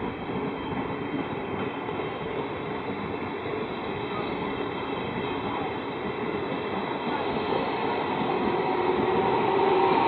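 A Trenitalia regional train of MDVC coaches rolling steadily past on the track, its wheels rumbling on the rails. It grows louder toward the end as the E.464 electric locomotive at the end of the train draws level.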